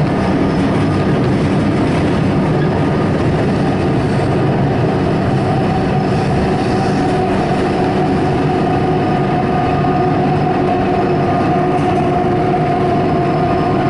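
Melbourne suburban electric train (unit 629M) running steadily, heard from inside the carriage as an even rumble. A steady whine comes in about halfway through and holds.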